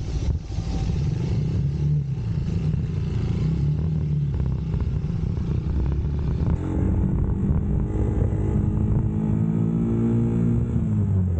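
UM Scrambler X motorcycle engine running under way, with wind rush over the microphone. About halfway through its note comes up clearly and holds, then drops in pitch near the end as the bike slows.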